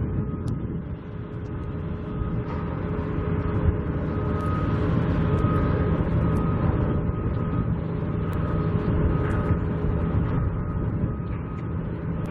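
Construction-site machinery: a steady low rumble with a reversing alarm beeping over and over, and wind buffeting the microphone.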